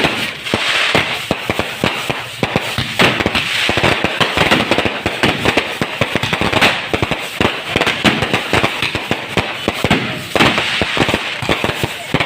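Firecrackers and fireworks going off in a dense, continuous barrage: many rapid, overlapping sharp bangs and crackles.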